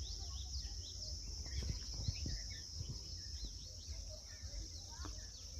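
Several birds chirping in short, rapid calls over a steady high-pitched insect drone, with a low rumble underneath.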